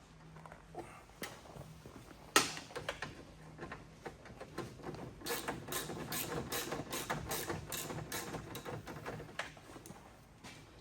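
Hand-work noises from stripping a 1978 Firebird's dash: a single sharp knock about two seconds in, then several seconds of quick clicking and rattling as tools and parts are handled.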